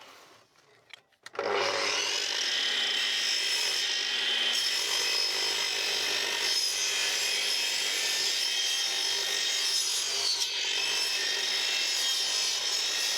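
Power saw cutting a timber board: after a second of quiet it starts suddenly and runs loud and steady without a break.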